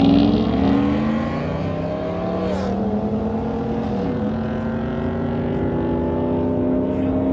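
Car engine accelerating hard at full throttle in a street race. The pitch climbs and drops sharply at two upshifts, about two and a half and four seconds in.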